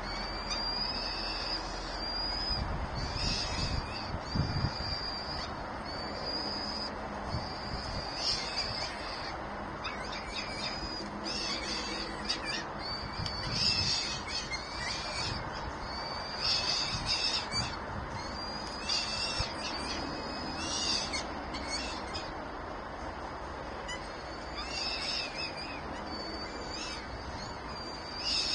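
Birds calling at the nest: a run of short, high-pitched calls, repeated every second or two, over a steady hiss.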